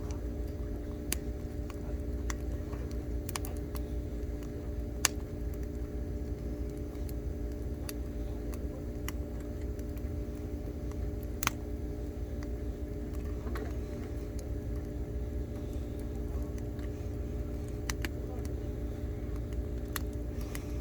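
Firewood burning in a campfire, giving irregular sharp crackles and pops a second or several seconds apart, with one loud pop about five seconds in, over a steady low rumble and hum.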